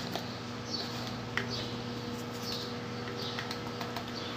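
A small bird chirping in the background: several short, high, falling chirps spaced irregularly, over a steady low electrical hum.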